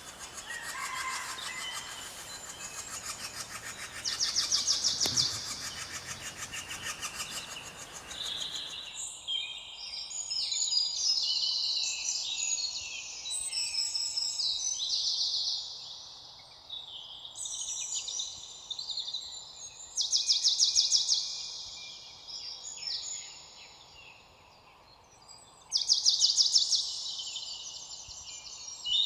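Several birds singing at once, overlapping chirps and whistles, with loud rapid trills that come back three times. The background hiss drops off suddenly about nine seconds in, and the birdsong carries on over a quieter background.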